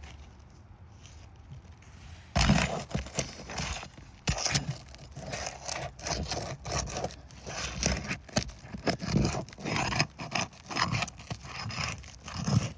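A tool scraping and prying against asphalt roofing shingles as the sealed tabs are broken loose and the roofing nails are pulled, in irregular strokes starting about two seconds in.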